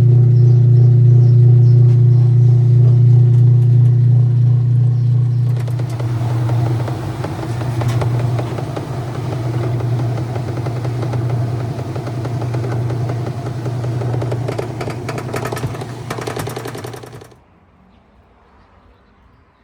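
Admiral direct-drive washing machine running, with a steady deep motor hum. About five seconds in it turns to a busier clattering churn that swells and fades every second or two, then cuts off suddenly near the end.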